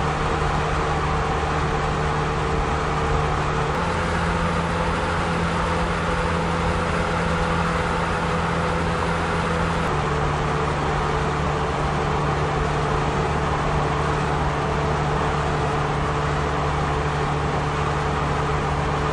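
A car driving on a road: a steady engine hum over road noise, with the hum's pitch stepping suddenly about four and ten seconds in.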